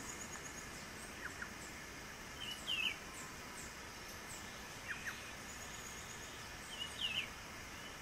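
Birds calling in a tree: short bent call notes about a third of the way in and again near the end, and pairs of quick falling chips between them. A faint high ticking and a steady hiss of the surroundings run underneath.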